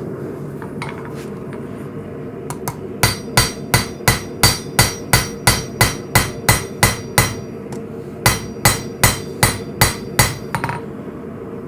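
Hand hammer forging a blade from coil-spring steel, striking at about three blows a second in two runs with a short pause between them. A steady hum runs underneath.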